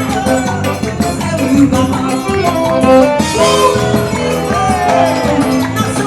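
Upbeat Brazilian folk-style band music, a melody over a steady rhythm with a rattling shaker.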